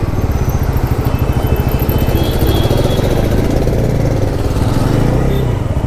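Bajaj Pulsar NS400Z's 373 cc single-cylinder engine running steadily at low revs as the bike makes a slow turn, its note dipping and rising slightly about four to five seconds in.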